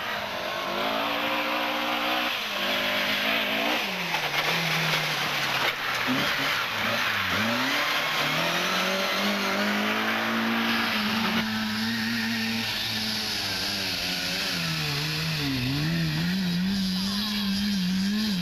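Rally car engines at full throttle, the revs climbing and dropping again and again through gear changes and lifts, over a steady hiss of tyre and road noise. The sound changes abruptly about eleven seconds in, as if cut to another car.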